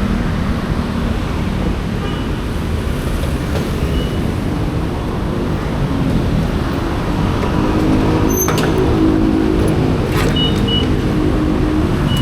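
Vehicle engine running under way, with a steady rumble of road and wind noise. The engine note rises about two thirds of the way through, and there is a sharp click shortly after.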